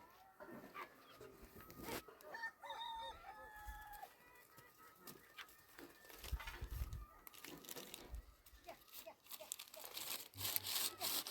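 A rooster crows once, a held call of about a second and a half, among scattered short clucking calls and knocks. A louder burst of rustling noise comes near the end.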